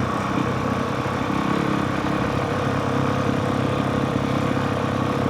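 Honda CRF450R's 450 cc single-cylinder four-stroke dirt bike engine running steadily at low, even revs, with no rise or fall in pitch.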